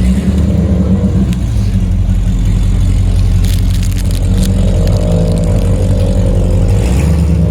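Car engine running loud and close at a fairly steady pitch.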